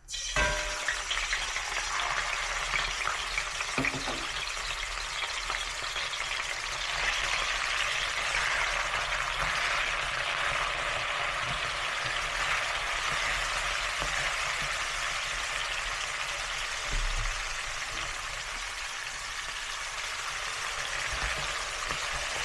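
Food frying in a hot pan, sizzling steadily; the sizzle starts suddenly, with a few light clicks in the first few seconds.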